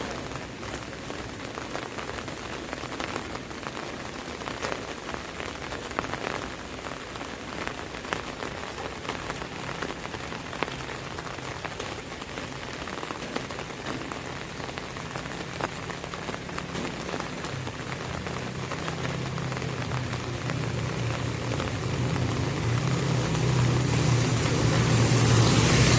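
Rain pattering on an umbrella canopy, a steady hiss full of small drop ticks. From about two-thirds of the way in, a vehicle's low engine hum and tyre hiss grow steadily louder as it approaches.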